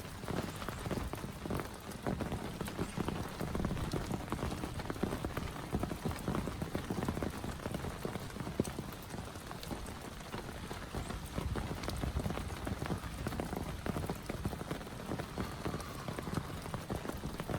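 Heavy rain falling steadily, dense individual drops pattering on a surface close by.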